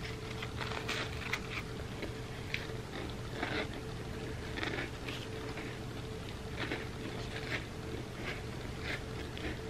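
Close-miked eating: a person chewing crackers coated in a soft chocolate dip, with irregular crunches, wet mouth clicks and finger licking. A steady low hum runs underneath.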